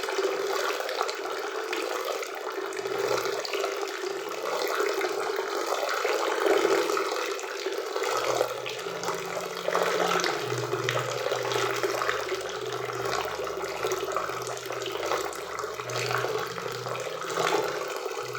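Waterfall on a forest river, water pouring and splashing in a steady, unbroken rush.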